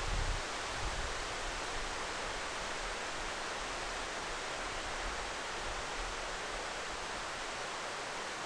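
Steady rushing noise, even and unbroken, with a brief low rumble in the first half second.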